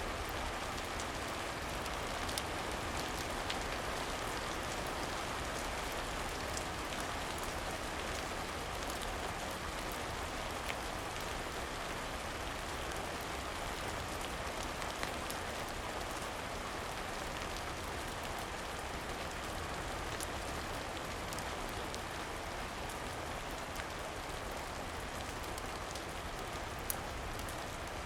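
Steady rain falling, an even hiss of drops, with a few sharp crackles from a wood fire here and there.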